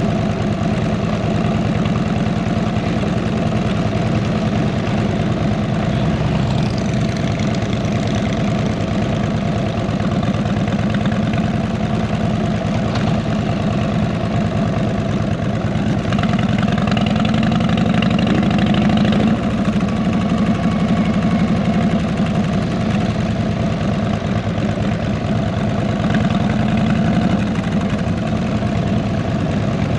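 The V-twin engine of a 2008 Harley-Davidson Electra Glide Ultra Classic with fishtail mufflers, running steadily, a little louder for a few seconds past the middle.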